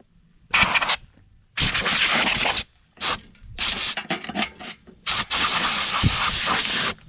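Compressed air from an air-compressor blow gun hissing in repeated bursts, some short and some lasting a second or two, as dirt is blown off the mower deck and pulleys.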